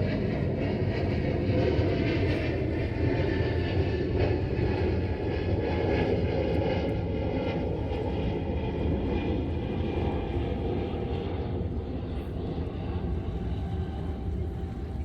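Steady engine drone over a low rumble, easing off slowly near the end.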